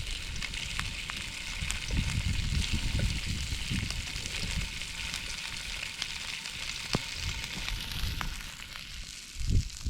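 Campfire crackling: a steady hiss with many short, sharp pops and snaps scattered through.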